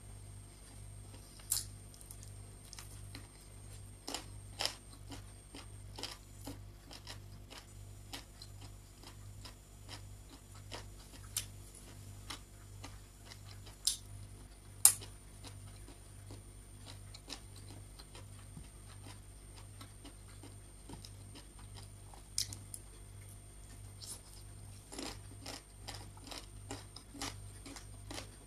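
Close-miked mouth sounds of eating rice and chicken by hand: chewing and lip smacks heard as scattered sharp clicks, the loudest about fifteen seconds in. A low, evenly pulsing hum runs underneath.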